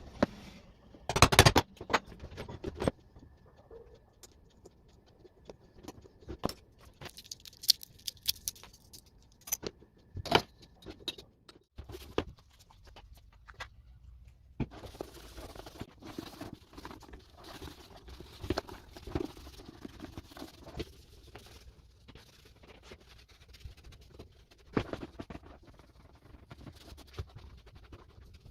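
Handling noises: scattered clicks, knocks and rustling, with a light metallic jingle about eight seconds in and a louder knock about a second and a half in.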